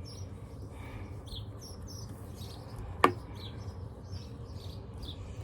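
Small birds chirping on and off in the background, with one sharp click about three seconds in.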